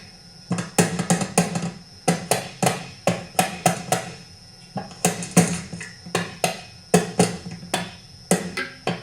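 Rubber mallet lightly tapping, over and over, on a plate held by six screws on a McCulloch Super Pro 125 chainsaw to knock it loose. The taps are sharp, two or three a second, in short runs with brief pauses.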